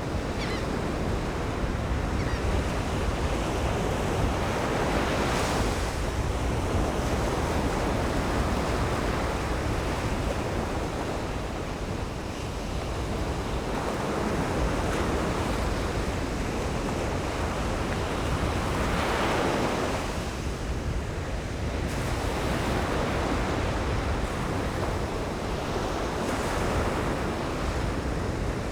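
Atlantic surf on a sandy beach: a steady wash of breaking waves that swells and fades every several seconds, one break after another.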